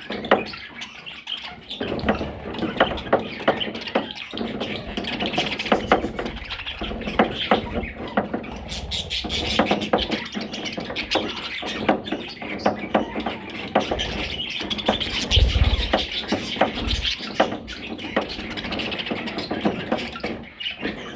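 Budgerigars chirping and chattering continuously, with many short clicks mixed in. There is a brief low thump about fifteen seconds in.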